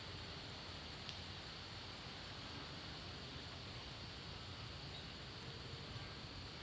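Steady night ambience of insects chirring in an even high band, with a faint high pulsing tone above it, over a low rumble of wind.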